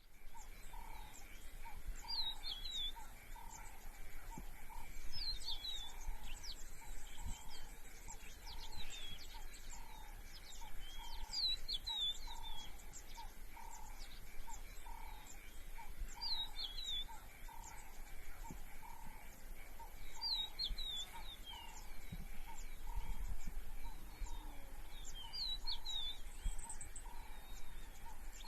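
Outdoor nature ambience: a bird repeats the same short, falling, twisting song phrase every four to five seconds. Beneath it run a soft, even pulsing call about once a second and a steady high hum.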